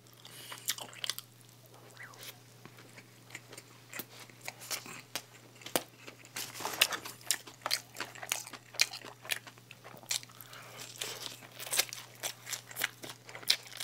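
Close-miked chewing and biting of a McDonald's burger and french fries: an irregular run of many small sharp mouth clicks, with a faint steady low hum underneath.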